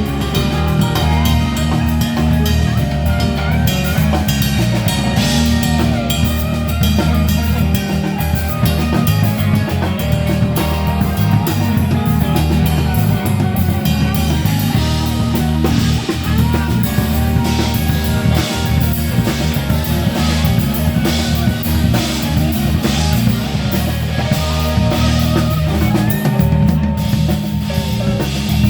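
Live band playing an instrumental passage: drum kit keeping a steady beat with bass and electric guitar, no singing.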